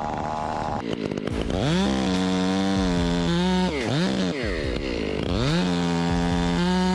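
Two-stroke chainsaw revving up to full throttle and holding a high steady whine, with the throttle let off and blipped in the middle before it is opened up to full revs again.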